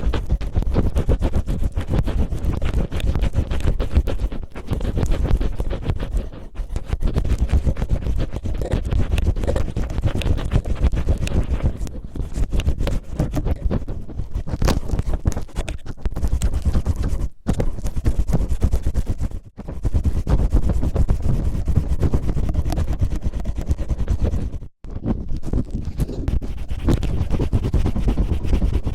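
Cellophane crinkled and rubbed against a microphone in dense, continuous crackling scratches, imitating ear cleaning. It stops briefly three times in the latter half.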